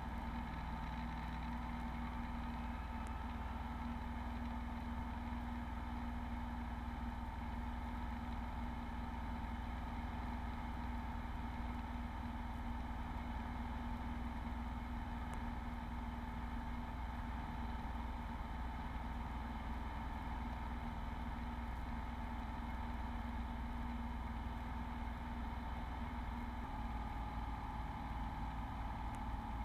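Beechcraft Bonanza V35's piston engine and propeller droning steadily in the cabin during the climb after a touch-and-go takeoff, an even hum with several constant pitches.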